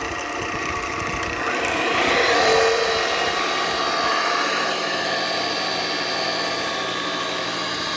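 Harbor Freight Central Machinery wood lathe running steadily on freshly replaced spindle bearings, a smooth even motor and spindle hum that swells a little a couple of seconds in. It is running pretty smooth, without the vibration the worn bearings gave.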